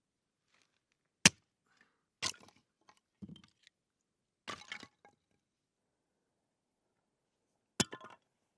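Objects being handled: two sharp clicks or knocks about six seconds apart, with a few short clinking and rustling bursts between them.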